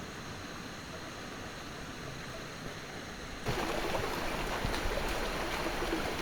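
Stream water running steadily, then suddenly louder about three and a half seconds in, with small ticks in the rush of water.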